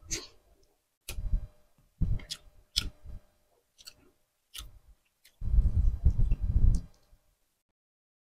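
Close-up chewing and wet mouth clicks from someone eating grilled tuna jaw by hand. It comes in short bursts, with a longer stretch of chewing starting about five and a half seconds in, and cuts to silence shortly before the end.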